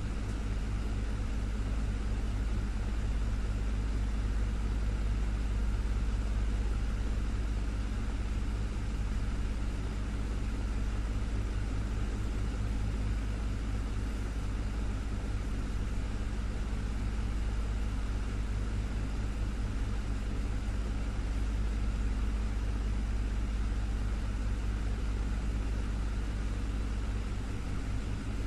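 Desktop fan running steadily: an even whoosh of moving air over a low motor hum.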